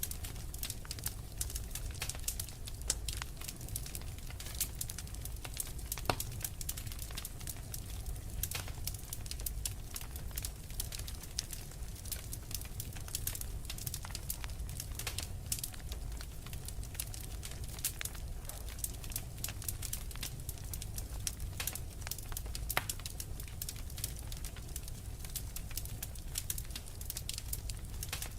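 Wood fire crackling: many sharp irregular pops and snaps over a steady low rumble of burning.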